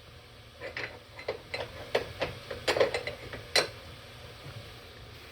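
Irregular light clicks and clinks of a metal engine pulley being handled. The taps are spread over about three seconds, then stop.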